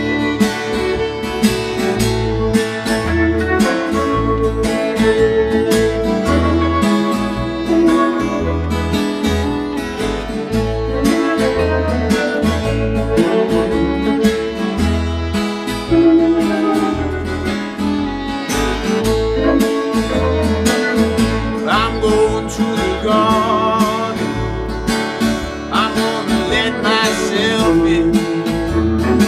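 A small Americana/blues string band playing: strummed acoustic guitar over a steady bass line, with electric guitar and fiddle. Sliding, bent notes come in over the second half.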